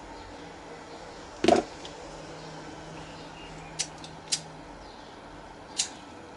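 A few sharp clicks and light knocks of small tools and wire being handled on a workbench, the loudest about a second and a half in and three smaller ones later.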